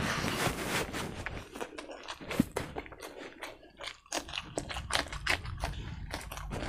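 Chewing a mouthful of rice and pork curry eaten by hand, a rapid run of sharp, wet mouth clicks. About four seconds in comes a crisp crunch as a raw green chili is bitten.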